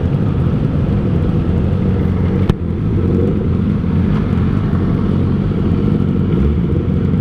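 Kawasaki ZX-25R inline-four engine through an R9 Zeta exhaust, running steadily at low revs without revving up. A single sharp click about two and a half seconds in.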